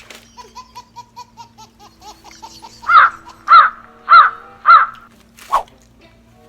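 A crow cawing four times about half a second apart, then once more, shorter. Before the caws comes a run of quick, soft chirping calls.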